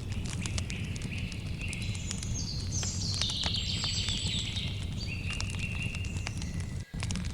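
Wood campfire crackling with frequent sharp pops over a steady low rumble, while insects trill in high steady tones that shift pitch every second or so. The sound cuts out for a split second near the end.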